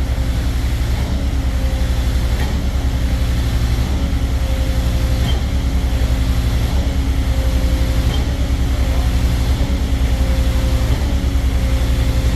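Putzmeister concrete pump truck running steadily while pumping concrete: a constant low diesel drone with a faint wavering whine above it.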